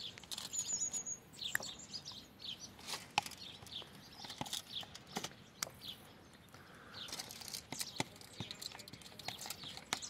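Small birds chirping in many short, high calls, one a brief high trill about half a second in. A few sharp light clicks of a metal spoon against the aluminium tray and yogurt tub break in now and then.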